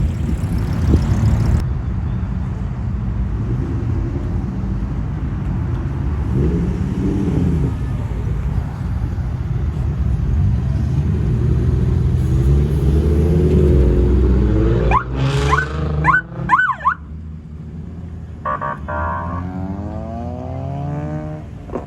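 Car engines running and revving, climbing in pitch, then a quick series of sharp rising whines about fifteen seconds in, before the revs fall away.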